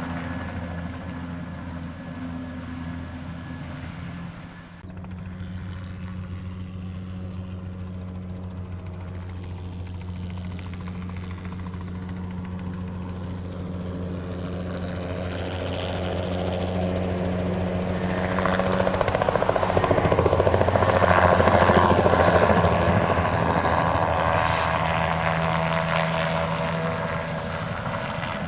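Light single-turbine crop-dusting helicopter with a steady rotor drone. There is a brief dip about five seconds in. The helicopter then grows louder, passing close about two-thirds of the way through, and eases off again near the end.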